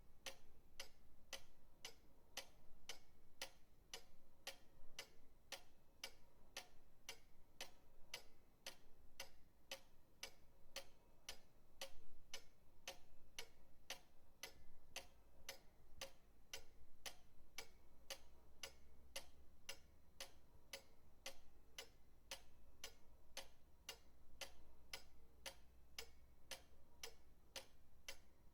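Pendulum clock ticking, a steady, even run of sharp ticks at a regular rate, fairly faint.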